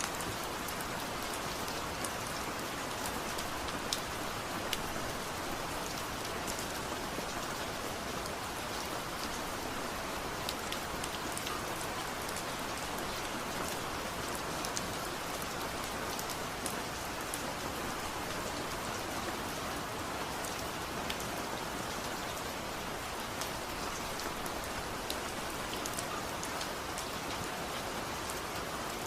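Steady rain falling, an even hiss with many small drops ticking throughout.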